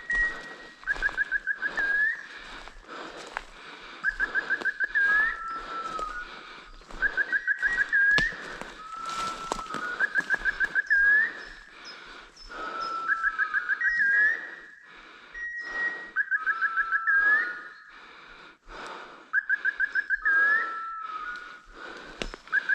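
A bird-like whistled call repeats about every two seconds, each a quick run of chirps ending in an upward flick, over rustling steps through brush.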